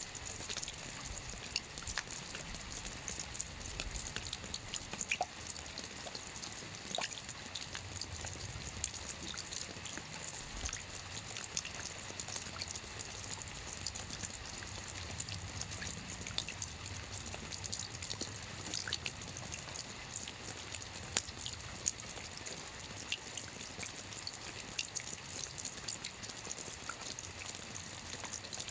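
Steady rain with many scattered drips and ticks of individual raindrops.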